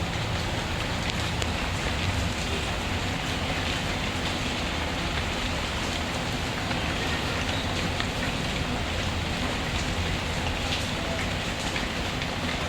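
Steady rainfall with a wood fire crackling faintly underneath, a few sparse snaps.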